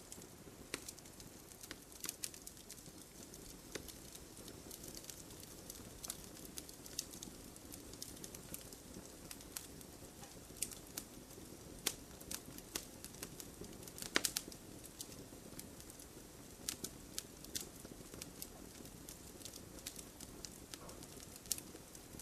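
Wood fire in a fireplace crackling, with irregular sharp pops over a low steady rush of burning, and a quick cluster of louder pops about two-thirds of the way through.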